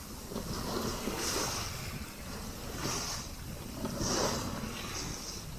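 Sea water rushing and splashing along a sailing yacht's hull under way, coming in surges every second or so, with wind buffeting the microphone.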